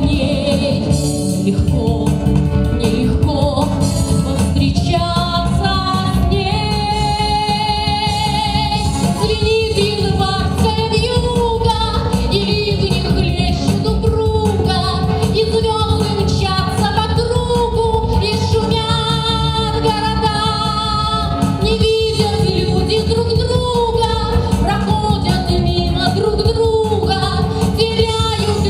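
A woman singing with marked vibrato over instrumental accompaniment.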